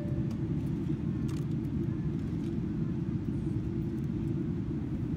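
Steady low rumble of airliner cabin noise inside a Boeing 777-300ER on approach: its GE90 engines and the airflow over the fuselage, heard from a window seat.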